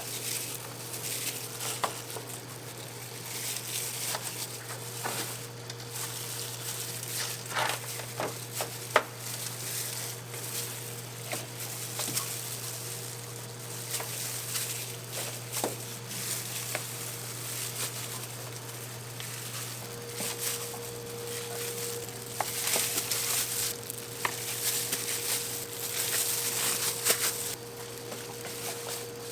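Sizzling and crackling of whole chickens roasting over an oak-wood fire, with many scattered sharp ticks over a steady low hum.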